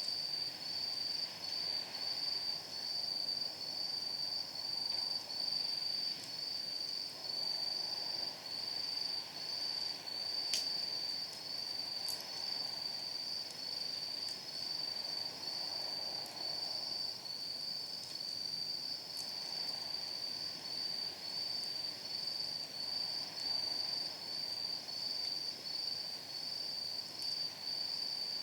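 Night insects chirping in a steady, fast pulsing rhythm at a high pitch. A wood fire in a steel fire pit crackles underneath with a soft hiss and a few sharp pops, the clearest about ten seconds in.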